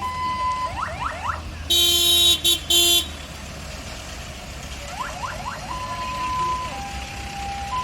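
A vehicle horn blares in three quick blasts about two seconds in, the loudest sound here. Around it electronic horns give steady beeping tones and runs of rising whoops, over a steady low rumble of engines.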